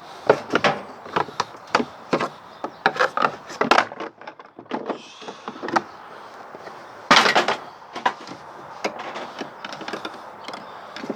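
Irregular knocks, clicks and clatters of plastic and sheet-metal parts as a tumble dryer's plastic motor casing is prised and worked loose by hand. A quick run of knocks in the first few seconds and one loud clattering knock a little after seven seconds.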